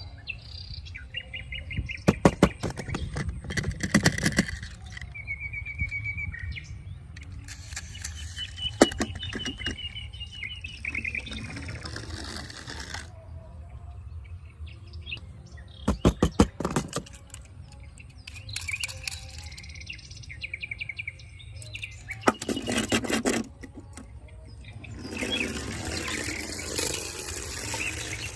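Birds chirping in short, fast trills, with several bursts of clicking and clattering.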